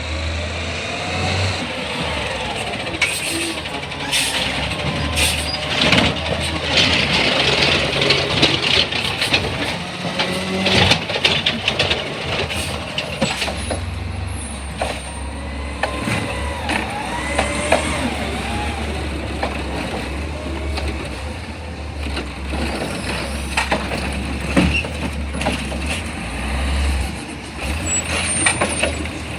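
Garbage truck working its route: the engine runs steadily under air-brake hisses, squeals, and many sharp clanks and bangs.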